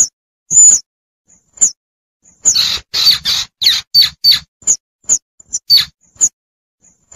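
Baby squirrel calling for its mother, a recorded hunting lure: short, shrill, high-pitched chirps about once a second. A quicker flurry of harsher, rasping calls comes near the middle, then rapid short chirps.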